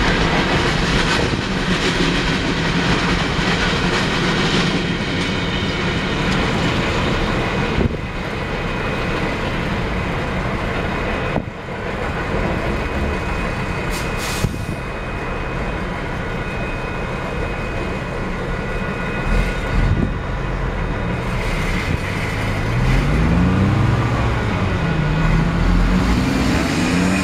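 Loaded coal hopper cars of a freight train rolling over a road grade crossing, a steady rumble of wheels on rail that drops away about eleven seconds in as the last car clears. Road traffic follows, with a car engine revving up and pulling away near the end.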